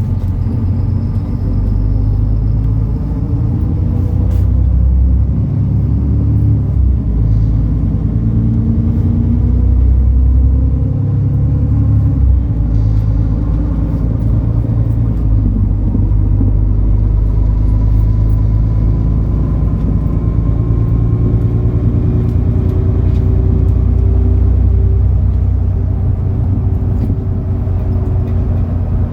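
MAN Lion's City NL293 city bus under way, its diesel engine running with a steady low rumble. The engine pitch slowly rises and falls as the bus accelerates and eases off.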